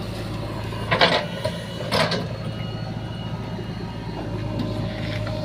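Heavy diesel engine running steadily, with two short, louder noises about a second and two seconds in.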